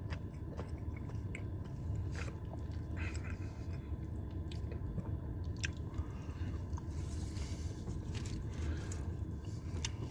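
A person chewing a bite of a spicy nacho chicken sub, with soft, scattered mouth clicks and crunches over a steady low hum.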